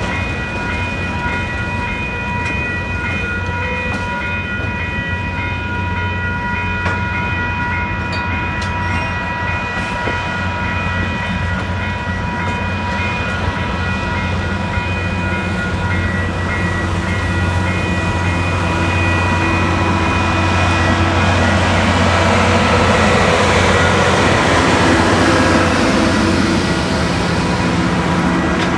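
Western Maryland Scenic Railroad excursion train, hauled by 2-6-6-2 steam locomotive #1309, rolling past over a steady low rumble, growing louder about two-thirds of the way through. Several steady high tones sound throughout.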